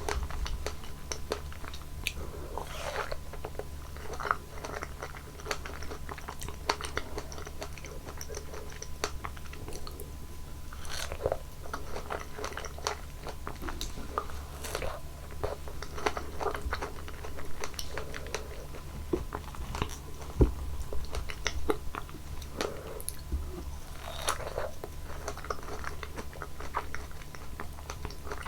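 Close-miked biting and chewing of juicy fresh fruit, with many short crunches and wet smacks, over a steady low hum.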